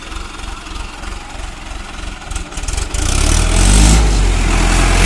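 Tractor diesel engine running at low revs with a steady low throb, then revving up hard and much louder about three seconds in.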